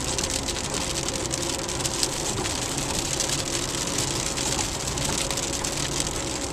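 Heavy rain pelting the car's roof and windshield as a steady dense patter of many small hits, heard from inside the moving car over a low road rumble.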